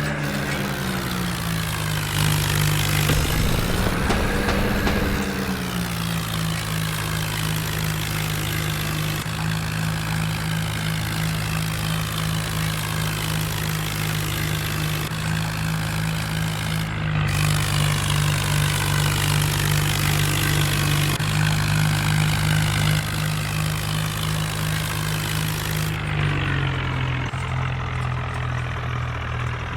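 Swaraj 4x4 tractor's diesel engine running steadily, revved up briefly a couple of seconds in and settling back, then dropping slightly in pitch near the end.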